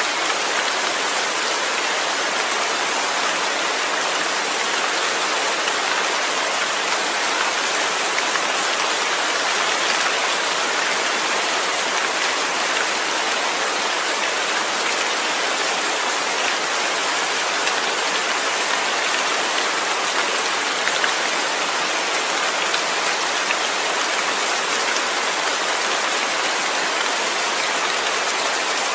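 Steady rain falling, an even hiss of drops on a surface that does not change in strength.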